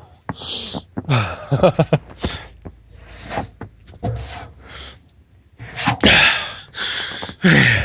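A man breathing hard and gasping in irregular breathy bursts, with a few wordless falling voice sounds about a second and a half in and again near the end.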